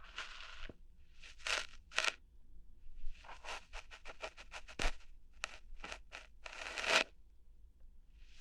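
Close-up ASMR ear-hair plucking sounds: short crackly scratching and tearing strokes right at the microphone, coming irregularly, with a quick run of them about three to five seconds in.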